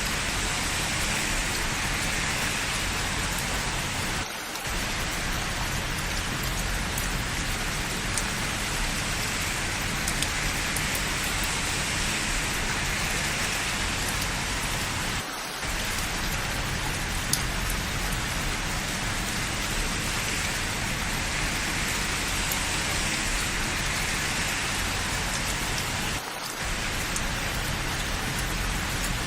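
Steady rain falling on hard surfaces, a dense, even hiss with a few faint drip ticks. Three times, about every eleven seconds, the low end drops out for a moment.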